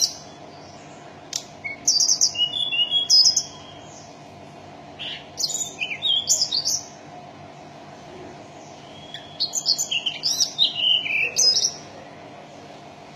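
A tledekan gunung (a small Indonesian songbird) singing in three bursts of quick, high chirping and trilling phrases, with short pauses between them. A steady low hum runs underneath.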